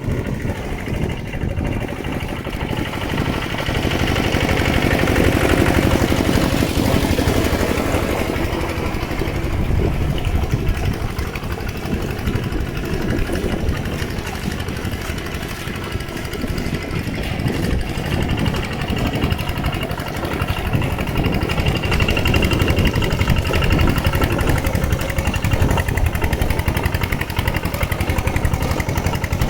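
Mini tractor engine running steadily as it plows through flooded, muddy field. It grows louder for a few seconds from about four seconds in, then settles back.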